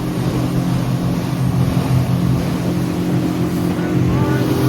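Boat motor running at a steady speed while under way, a steady low engine note over a broad rushing noise.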